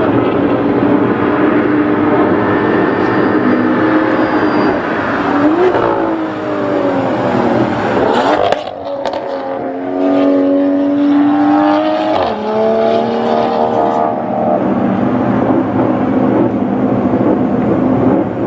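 MotoGP safety car's engine running hard, its note climbing then falling over a few seconds and breaking off briefly about eight seconds in before pulling again, with another shift in pitch a few seconds later.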